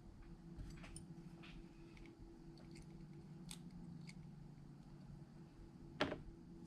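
Light clicks and taps of small hand tools working on iPhone parts, with one sharper, louder click about six seconds in, over a low steady hum.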